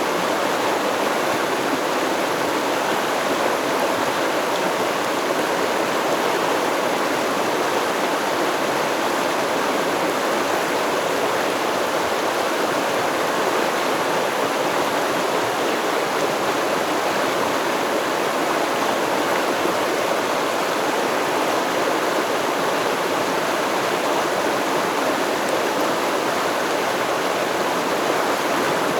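Stream water flowing and babbling over rocks in a steady, even rush.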